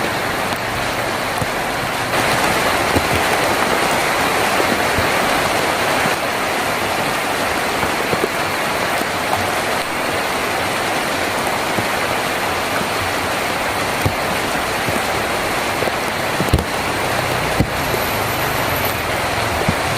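Heavy rain on a tin roof, a steady dense patter with scattered louder single drops. A faint low hum sits under it at the start and again near the end.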